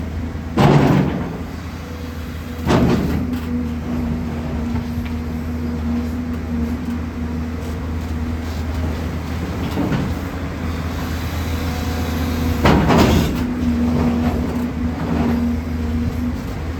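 JCB 245 HD LR long-reach excavator working in rock: its diesel engine runs steadily under load while a hydraulic whine comes and goes. Three loud knocks, about a second in, near three seconds and near thirteen seconds, are the bucket striking and scraping rock.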